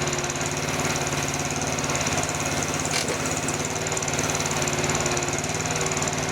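Small engine running steadily under light load, with a single sharp click about halfway through.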